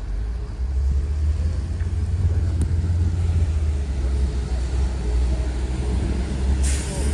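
Low, uneven rumble of blizzard wind buffeting the microphone, over outdoor street noise, with a brief hiss about six and a half seconds in.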